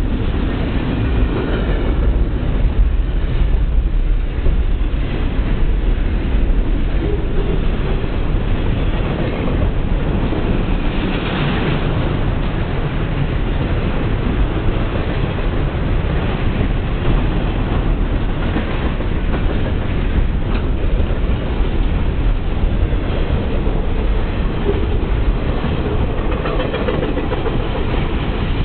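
Double-stack container train's loaded well cars rolling past close by: a loud, steady rumble with wheels clacking over the rail joints.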